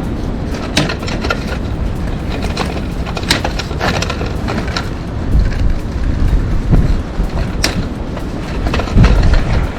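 Strong wind buffeting the microphone in uneven gusts, with scattered short clicks and scrapes over it.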